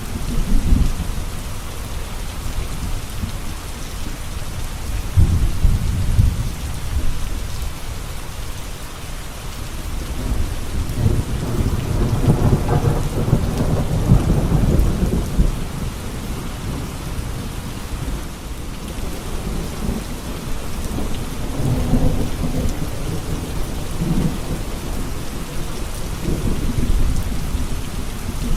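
Steady rain falling, with low rolling thunder that swells and fades several times, loudest around the middle.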